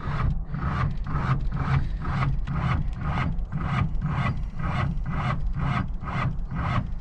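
Starter motor cranking a classic car's engine over, with an even rhythm of about three compression strokes a second, and the engine not firing. The starter is not the happiest.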